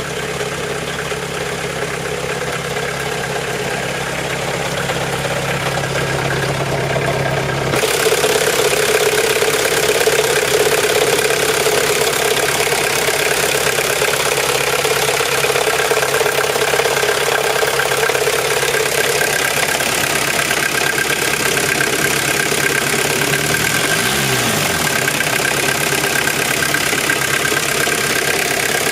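1993 VW Golf 3 1.9 diesel engine idling in neutral. About eight seconds in the sound changes suddenly: a louder, hissy mechanical noise comes in over the engine and runs on steadily. The owner hears this noise when the clutch pedal is released in neutral and it gets louder while driving; he is unsure whether it comes from the gearbox, the clutch or the differential.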